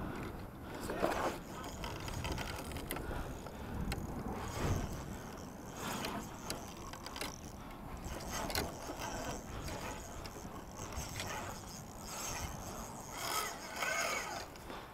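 Fishing reel clicking and ratcheting in irregular runs, with scattered knocks against the kayak.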